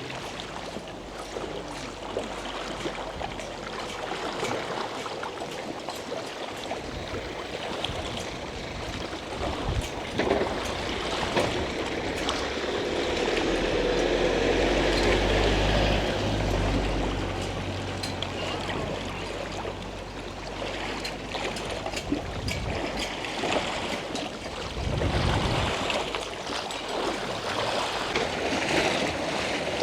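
Outdoor lakeside ambience of moving water, with a low rumble that swells and fades about halfway through.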